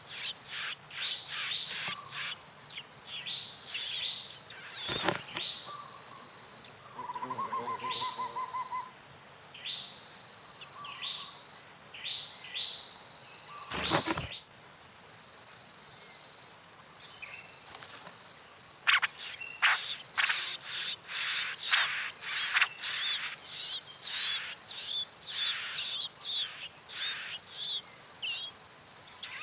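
Steady high-pitched pulsing insect chorus, with many short falling bird chirps over it, thickest in the second half. Two sharp knocks come about five and fourteen seconds in.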